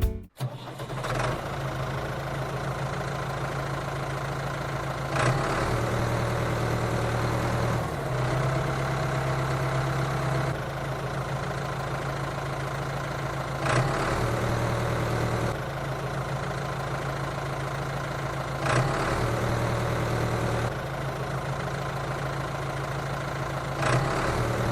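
A motor running steadily with a low hum, in a string of short segments a few seconds apart where the pitch shifts slightly.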